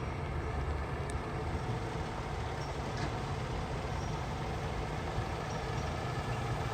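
Fire truck's diesel engine running steadily with a low rumble.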